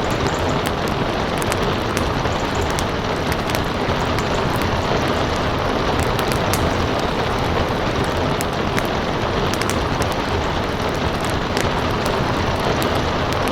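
Steady rain together with a crackling wood fire, the crackle coming as many small sharp pops scattered over the constant hiss of the rain.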